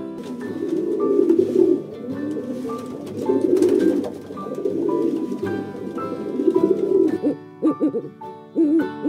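Low bird calls repeating in pulses about a second long, over background music with a melody of short held notes.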